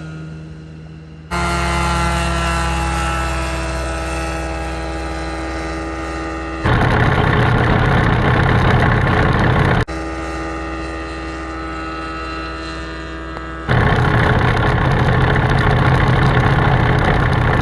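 Ultralight aircraft's propeller engine running, in several spliced clips. Steady engine tones alternate with louder, rougher stretches that begin abruptly about seven and fourteen seconds in.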